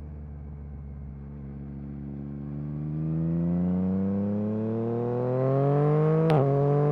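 Yamaha MT-09 SP's inline three-cylinder engine through an Akrapovic carbon racing exhaust, pulling from low revs with the pitch climbing steadily under acceleration. A sharp crack about six seconds in comes with a brief dip in pitch, as at a gear change, and the engine then runs on steady.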